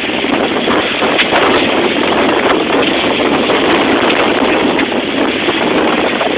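Steady loud rush of wind on the microphone and water along the hull of a sailing gig moving fast through choppy waves, with scattered sharp crackles.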